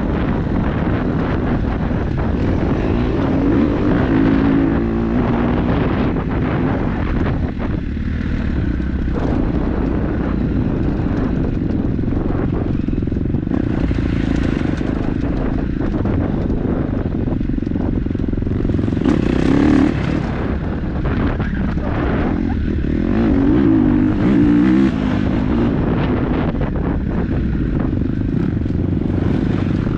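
KTM 250 dirt-bike engine running under way on a trail, the revs rising and falling as the throttle is worked, with wind buffeting the microphone.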